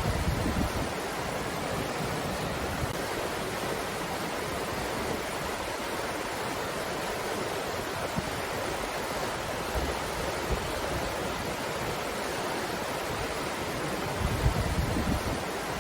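Breeze blowing as a steady rushing noise, with low rumbles of gusts buffeting the microphone at the start and again near the end.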